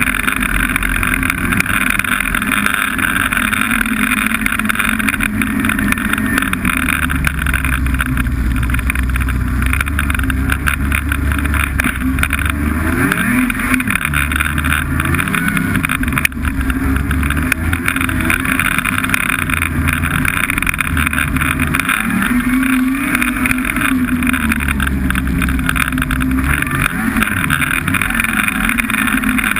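Snowmobile engine running under way, with its pitch rising and falling a few times in the middle.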